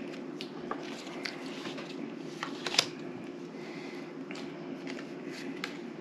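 Playing cards being handled and laid on a table: scattered soft clicks and flicks, the sharpest about three seconds in, over a steady low hum.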